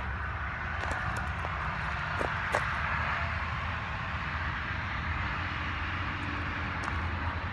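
Steady distant traffic rumble from a nearby highway, swelling slightly midway, with a few faint clicks and light knocks.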